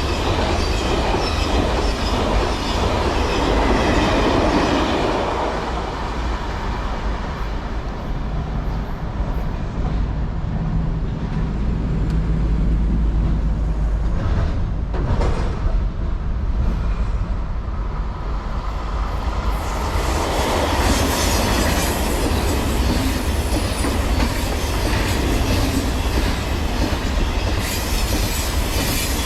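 Train running along the rails, wheels and cars rumbling steadily, with a high metallic wheel squeal at the start and again from about twenty seconds in, easing to a lower rumble in between.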